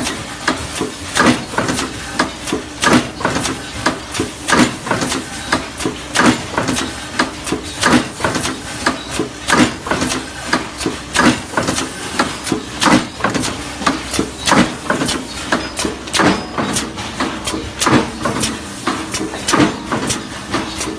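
Saw blade machine running, with a sharp mechanical clack repeating evenly a little more than once a second over a steady motor hum.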